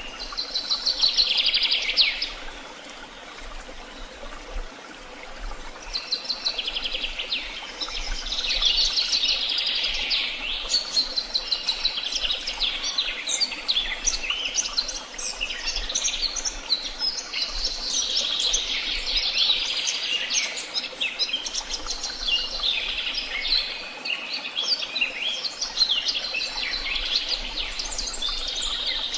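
Songbirds singing: a short burst of high twittering song, a pause of a few seconds, then a near-continuous chorus of overlapping trills and chirps from more than one bird.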